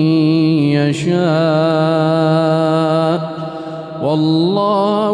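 A man chanting Quranic recitation (tajwid) in long, drawn-out melodic notes that waver slowly in pitch. The voice briefly drops away for a breath about three seconds in, then resumes on a higher held note.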